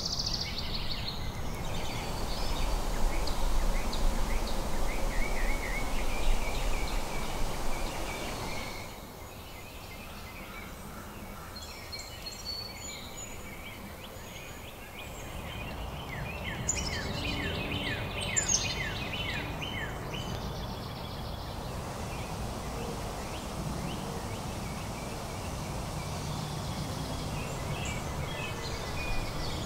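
Outdoor ambience of birds singing and calling over a steady background hiss, including a rapid run of notes partway through. A low rumble underlies the first several seconds.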